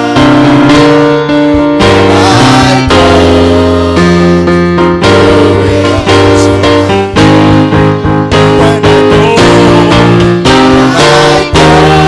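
Church worship music led by a keyboard playing sustained chords that change every second or so, loud and continuous.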